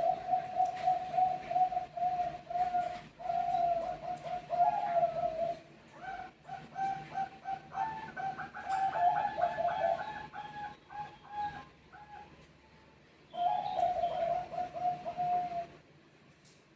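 Zebra doves (Bangkok perkutut) cooing in rapid, rolling runs of notes, calling back and forth. Higher-pitched coos overlap the lower ones through the middle, and the calling stops near the end.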